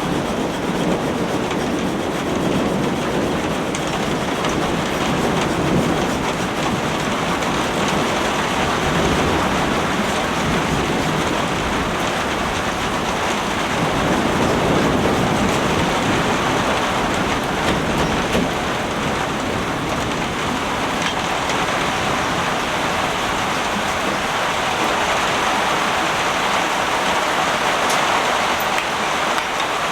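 Heavy rain pouring steadily in a dense, even rush, swelling a little louder about halfway through.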